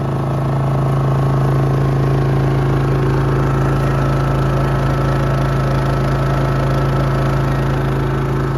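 Generator engine running steadily at constant speed, a loud even hum with no change in pitch, getting a little louder over the first second.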